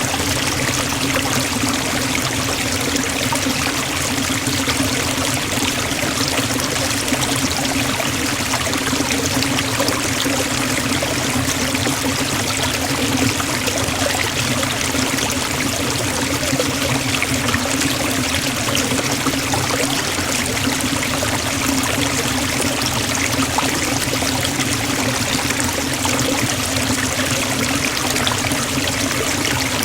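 Forest waterfall: a steady, even rush of falling water that does not change.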